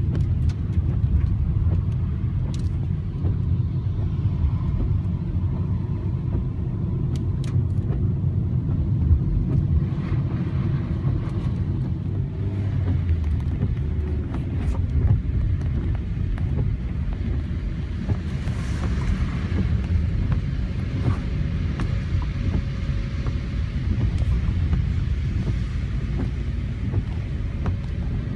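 Strong gusting wind of a windstorm buffeting the phone's microphone: a dense, low rushing noise that never lets up.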